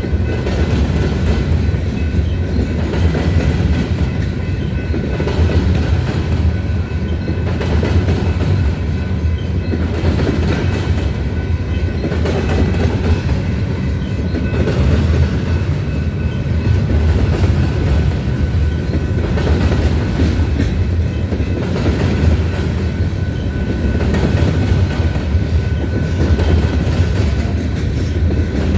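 A grain train's freight cars rolling past: a steady, loud rumble of steel wheels on rail with regular clickety-clack over the rail joints and a faint high steady ring over the top.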